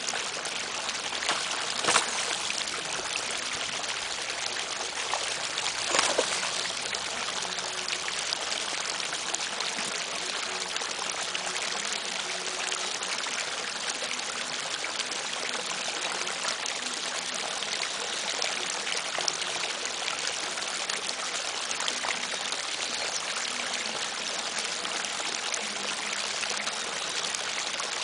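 Steady rush of running water, with two short, louder noises about two and six seconds in.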